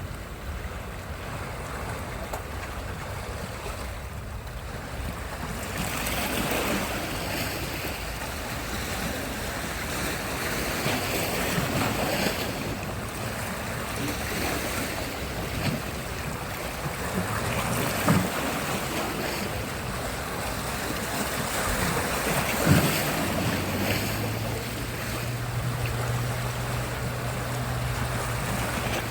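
Sea surf: waves washing onto the shore in slow swells, with wind on the microphone. A low steady hum comes in during the second half, and there are two short sharp knocks.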